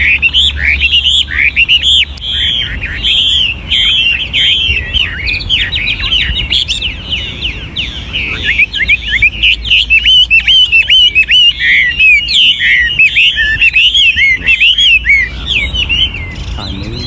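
Chinese hwamei (an old wild-caught bird) singing a fast, unbroken run of varied whistled and slurred phrases, changing its phrases constantly, then thinning out near the end.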